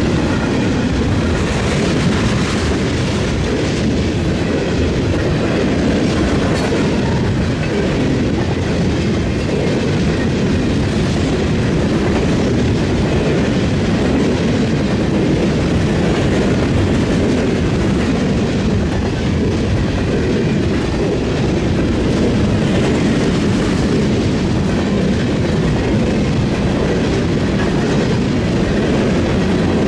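Freight train cars rolling steadily past, their steel wheels clattering over the rail joints and a railroad diamond crossing.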